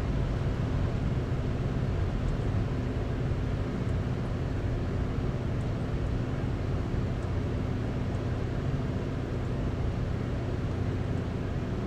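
Steady rumble with a low hum of a passenger train, heard from on board as it arrives at the station.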